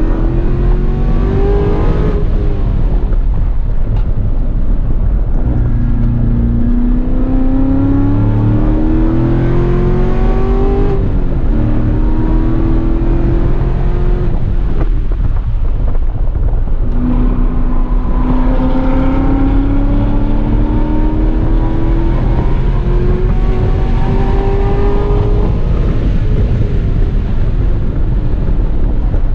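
Chevrolet Corvette C7 Grand Sport's 6.2-litre LT1 V8 under hard acceleration. Its pitch climbs, steps down briefly at each upshift and falls away between two long pulls, over a constant low rumble.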